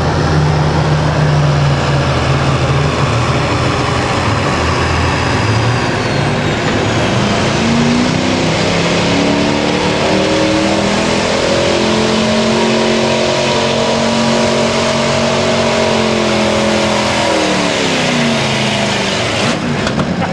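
Pulling truck's engine running hard under load. Its pitch climbs about eight seconds in, holds high for several seconds, then drops off near the end.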